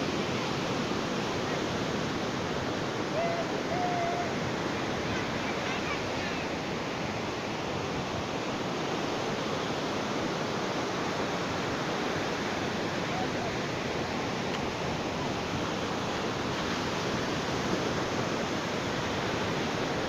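Ocean surf washing onto a beach, a steady, even rush of water with no distinct swells.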